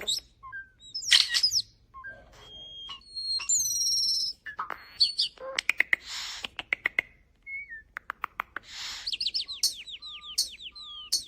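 Starling singing a varied, jumbled song of whistles, clicks and rasps, with trains of sharp clicks near the middle and a quick run of short falling whistles near the end.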